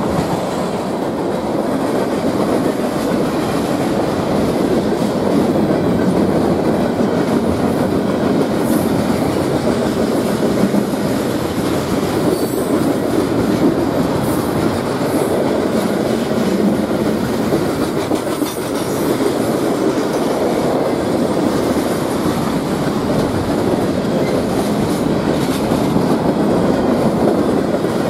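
Cars of a mixed freight train rolling steadily past on steel wheels and rail, a continuous rumble with a few faint high squeaks.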